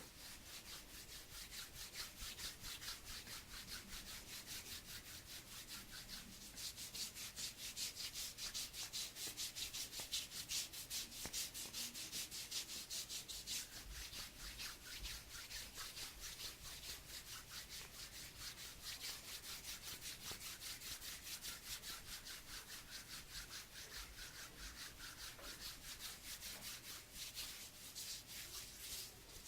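Palms of the hands rubbed together in quick, even back-and-forth strokes, a soft dry hiss close to the microphone.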